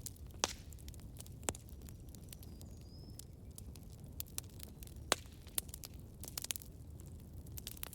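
Campfire burning: irregular sharp wood crackles and pops over a low steady rumble of the flames, with a quick cluster of crackles about six and a half seconds in. A faint, brief high whistle comes about three seconds in.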